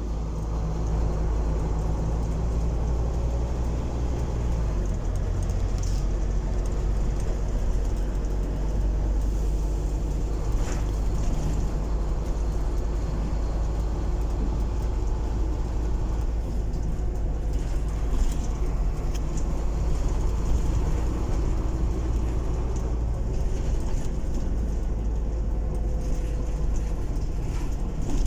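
Scania-engined double-decker bus heard from on board while under way: a steady low engine rumble with road noise and occasional small rattles and clicks.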